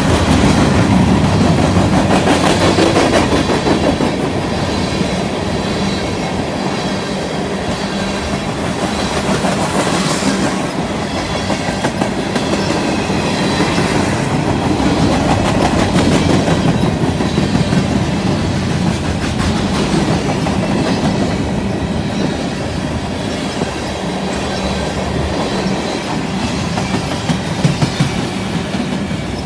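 Freight cars of a mixed freight train (tank cars, covered hoppers, an autorack) rolling past: steel wheels rumbling steadily and clicking over the rail joints.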